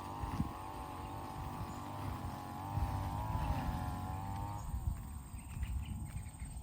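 A motor drones with a slightly wavering pitch, then drops in pitch and fades about four and a half seconds in. Faint ticks follow near the end.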